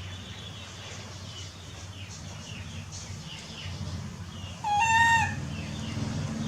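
Animal calls: faint, short, high chirps repeating over a low hum, then one loud, high pitched call lasting about half a second, about five seconds in.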